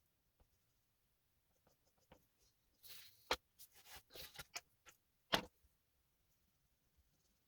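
Oil pastel being worked on paper: a run of short scratchy scrapes from about three to five seconds in, with two sharp clicks, the louder one just past five seconds.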